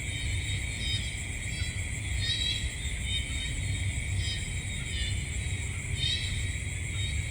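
Night-time nature ambience: a steady high insect trill with short chirping calls repeating about once a second over a constant low rumble.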